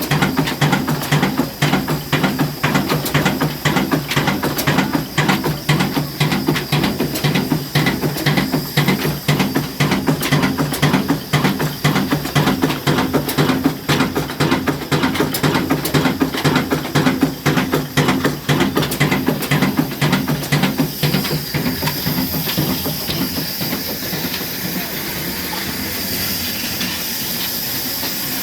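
Slow-speed single-cylinder 'kala' diesel engine, rated 22 hp at 300 rpm, running with an even rhythmic beat. About two-thirds of the way through the beat fades and a steady hiss takes over.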